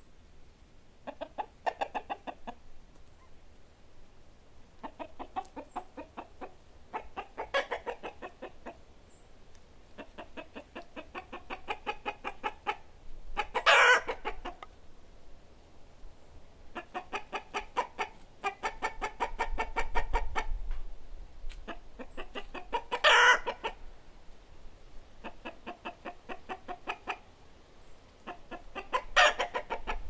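Hens clucking in long runs of quick clucks, some of them building into a loud squawking call about a second long: cackling, heard three times.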